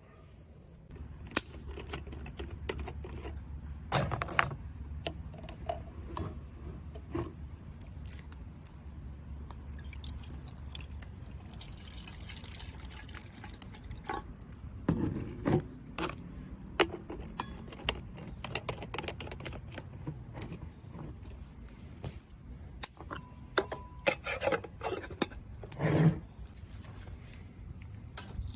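Scattered clinks, knocks and handling noises of camp gear and dishes, with a few small liquid sounds. A low steady rumble runs under the first ten seconds or so.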